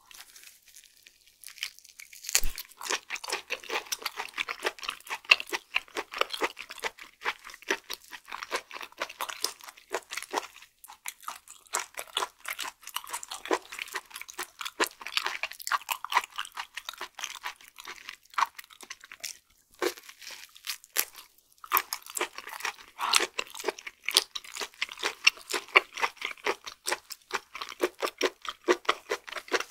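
Close-miked mouth sounds of chewing raw flounder sashimi: rapid, dense clicking of a firm, chewy bite, pausing briefly twice. A single low thump comes about two seconds in.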